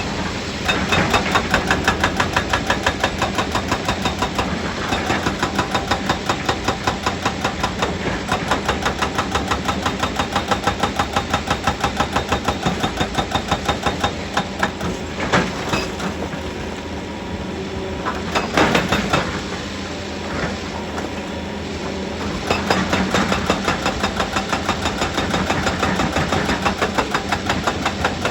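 Heavy quarry machinery running with a rapid, even pulse of about five beats a second. A couple of sharp knocks come past the middle, where the pulse eases for a few seconds before picking back up.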